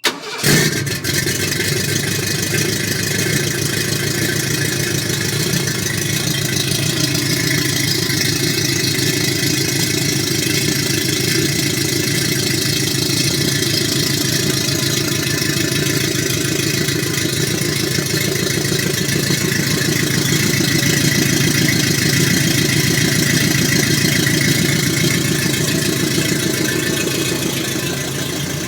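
1979 Ford F100's 460 V8, with a Comp Cams 256H cam and Summit open-chamber mufflers, starting: it catches almost at once with a brief surge, then settles into a steady idle.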